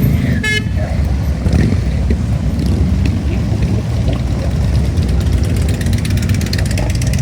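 A large group of motorcycles riding past, their engines making a steady, dense low rumble. A brief high-pitched tone sounds about half a second in.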